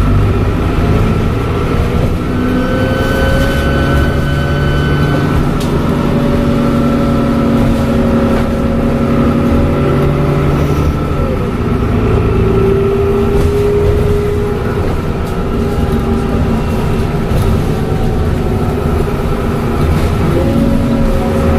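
Dennis Trident double-decker bus under way: its diesel engine runs with a low rumble, and a turbocharger whistle sits over it. The whistle holds steady notes that drift and shift in pitch a few times as the engine's load and speed change.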